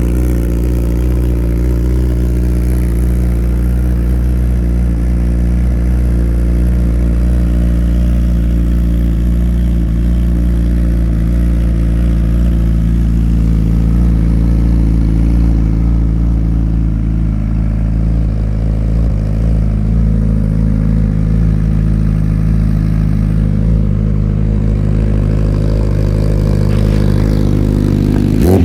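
Honda CBR1000RR Fireblade SP's inline-four engine idling steadily through its Akrapovic exhaust, the pitch holding level.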